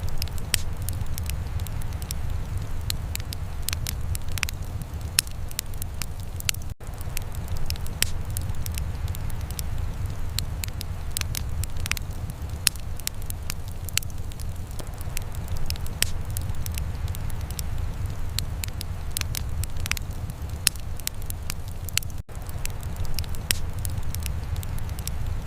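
Wood fire in a fireplace crackling, with irregular sharp pops and snaps over a steady low rumble. The sound cuts out for an instant twice.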